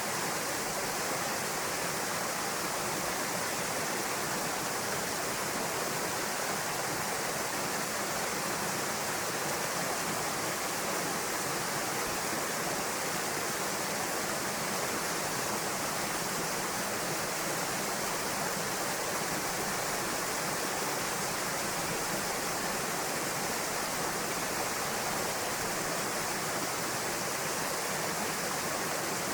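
Steady rushing of a waterfall pouring into a pool, an even hiss of falling water with no let-up.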